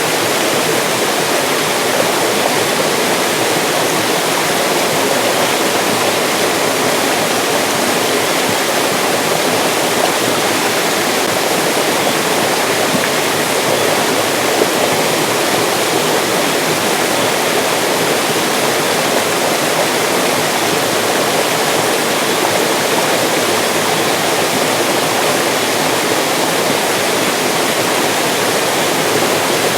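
Mountain stream rushing steadily over rocks, a continuous, even rush of water with no pauses or distinct splashes.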